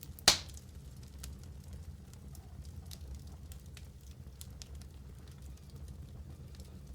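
Wood fire burning in a fireplace: a low steady rumble of the flames with scattered small crackles, and one loud sharp pop about a third of a second in.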